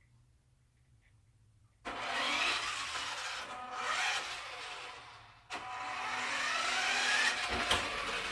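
Small brushed electric motor of a converted New Bright RC Dodge truck (a swapped-in Badzilla/Trak Attack motor on a 3S lipo) running up with a rising whine over a rushing noise, in two runs: the first starts about two seconds in and fades, the second starts about halfway and carries on.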